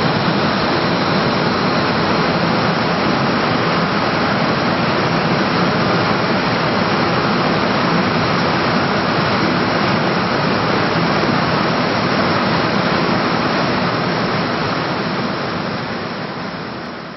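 A loud, steady rushing noise with no distinct tones or beats, fading out over the last couple of seconds.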